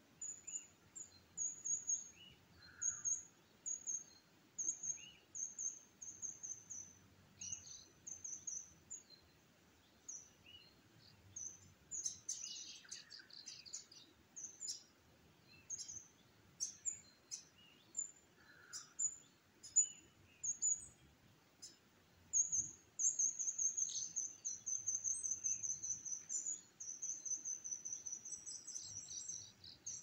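Small birds chirping: high, thin notes repeated about once or twice a second, a cluster of sharp clicky calls near the middle, and faster, almost unbroken chirping in the last several seconds.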